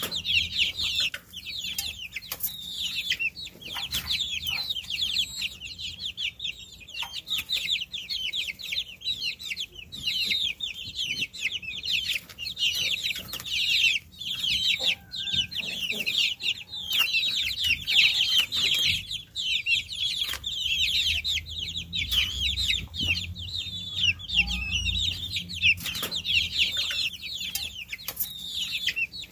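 A brood of baby chicks peeping continuously, many high, fast downward-sliding peeps overlapping, with scattered light taps and a low rumble underneath.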